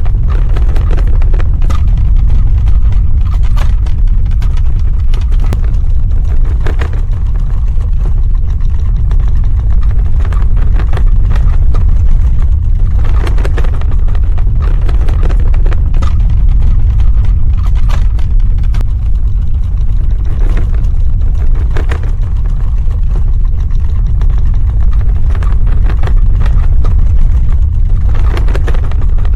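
Earthquake sound effect: a deep, continuous ground rumble with scattered crackles and rattles over it.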